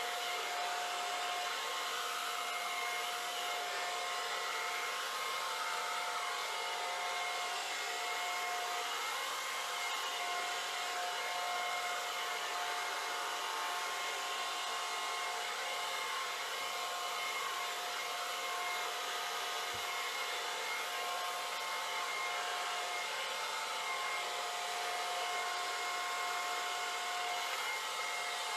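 Hair dryer with a tapered nozzle running steadily: a constant rush of air with a steady motor whine.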